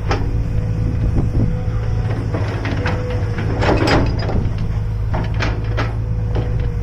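Hydraulic excavator's diesel engine running steadily under work, with scattered short knocks and clicks from the machine and a louder rushing burst near four seconds in.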